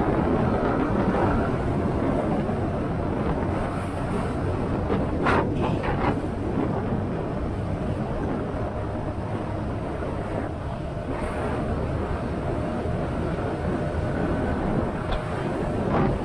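Motorcycle riding along: wind rushing over the microphone on top of the steady run of the engine, with two short hissing gusts about five and six seconds in.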